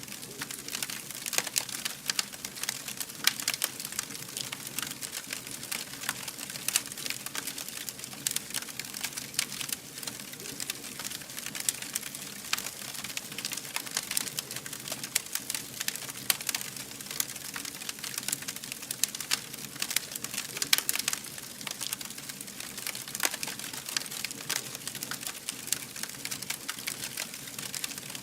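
Fire burning, crackling steadily with many sharp, irregular pops over a soft hiss.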